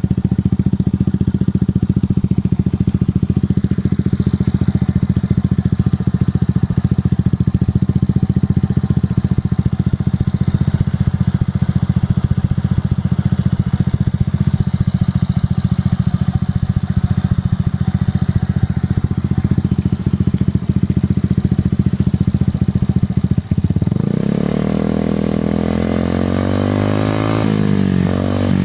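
Suzuki Address V125G scooter's single-cylinder four-stroke engine running through a Realize 22 Racing titanium exhaust with the baffle removed. It idles with a loud, steady low beat, and about 24 seconds in it is revved, its pitch rising and falling a few times.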